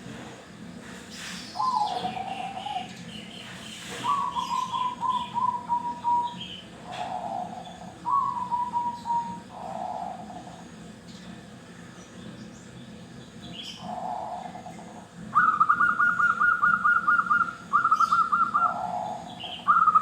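Zebra doves cooing: a string of quick rolling, trilled phrases, lower ones alternating with higher ones. The highest and loudest phrases come in the last few seconds.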